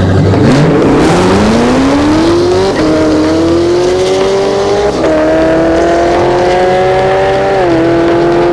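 Car engine at full throttle, accelerating hard through the gears: its pitch climbs steadily, drops sharply at each of three upshifts, then climbs again. It cuts off suddenly near the end.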